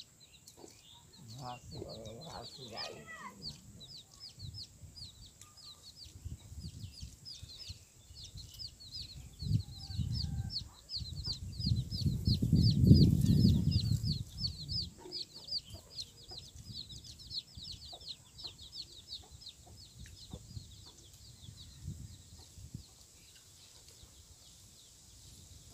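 A bird chirping rapidly and repeatedly, several short high chirps a second, thinning out near the end. A low rumble swells up in the middle and is the loudest sound.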